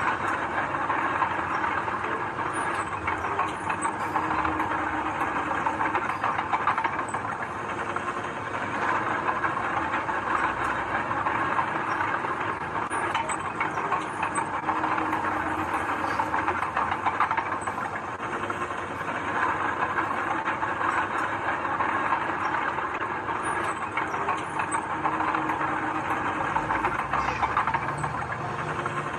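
Heavy earthmoving machinery at work: diesel engines running under a continuous clattering, rattling noise.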